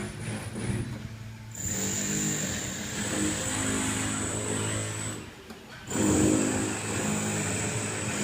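Engine-driven works machinery running in spells, with a low hum that drops away briefly about a second in and again around five seconds in, under a steady high whine.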